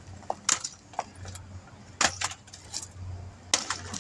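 Several sharp metallic clinks and rattles of tools and parts being handled, over a steady low hum.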